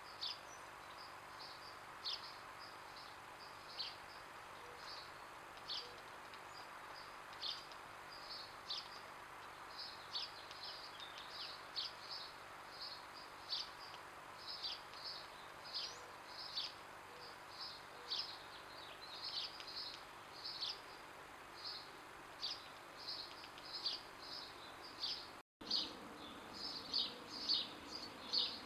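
Small birds chirping in the background: many short, high, downward-slurred notes repeated irregularly, growing busier toward the end. The sound cuts out for a moment near the end.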